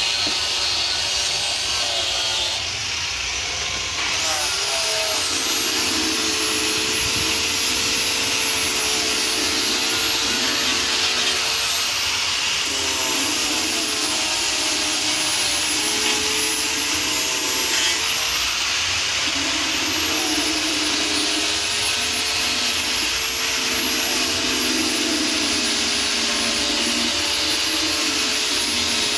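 Electric power tool motor running continuously with a high whine, its tone shifting a little every few seconds as it works.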